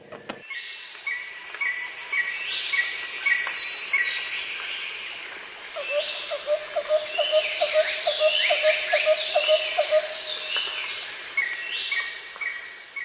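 Several birds singing and chirping over a steady high-pitched drone. Midway, a run of low, evenly spaced notes comes in at about three a second for some four seconds.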